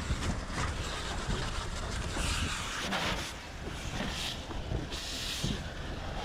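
Steady low engine rumble with three short bursts of hissing water spray from a fire hose nozzle on spray setting, about two, four and five seconds in.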